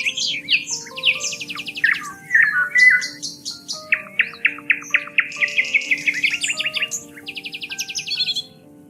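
Songbirds chirping and singing fast, rapid trills of repeated notes, layered over soft, slow background music of held notes. The birdsong drops away shortly before the end while the music carries on.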